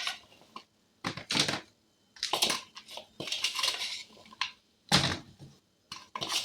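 Kitchen clatter of a pan and utensils being handled, in a series of short, separate bursts with quiet gaps between.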